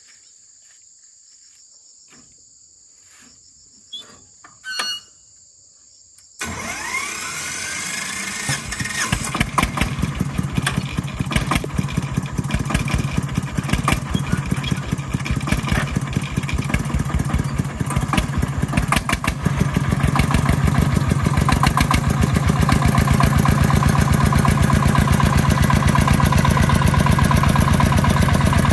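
Insects chirping steadily, with two short clicks. About six seconds in, a farm vehicle's engine starts abruptly and runs with a fast, even beat, growing louder about twenty seconds in.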